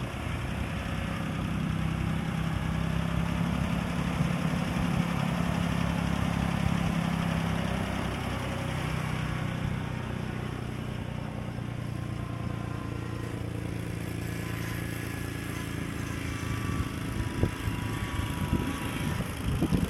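Ford 2110 LCG tractor engine running steadily, a little louder for several seconds before settling back, with a few irregular knocks near the end.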